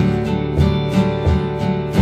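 Live band music in an instrumental passage without singing: strummed acoustic guitar over a steady low beat.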